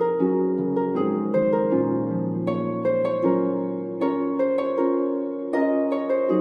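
Instrumental background music: a melody of plucked, harp-like notes, a few each second, over held low notes.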